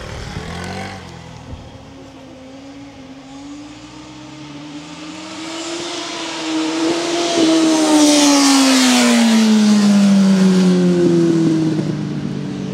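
Racing car engine at high revs, getting louder as it approaches, then passing close by about eight seconds in with its pitch dropping, and running on as it pulls away.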